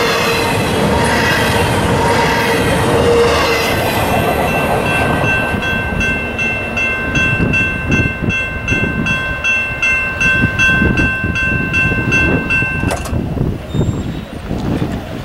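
Double-stack intermodal freight cars rolling past with a wavering wheel squeal, then a grade-crossing warning bell ringing steadily about twice a second. The bell cuts off near the end as the crossing gates rise after the train has cleared.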